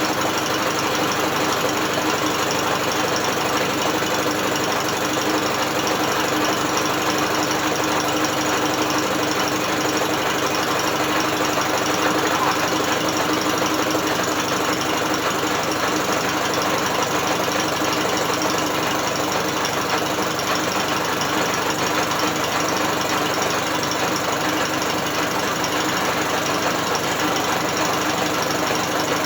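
British Seagull outboard motor turned over at a steady speed by an electric drill: the drill motor and the outboard's turning parts run together in a continuous mechanical whirr and clatter, with no change in speed.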